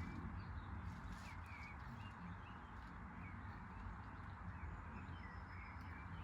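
Washing machine running with a steady low rumble, with faint short high chirps scattered over it.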